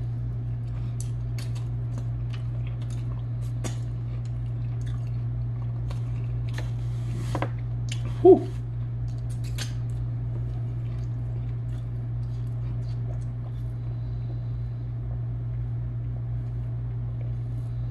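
Close-miked chewing of chicken: small wet mouth clicks and smacks scattered throughout, over a steady low hum. A short hummed "mm" about eight seconds in is the loudest sound.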